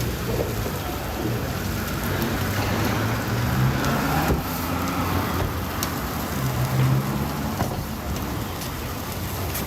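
Steady low rumble under an even hiss, with a few faint clicks.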